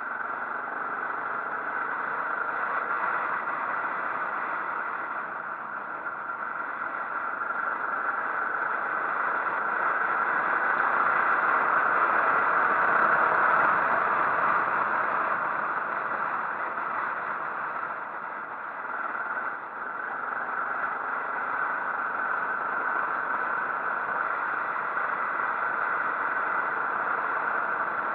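Motorcycle ride noise: a steady rush of wind and engine that grows louder toward the middle, then dips briefly about two-thirds of the way through.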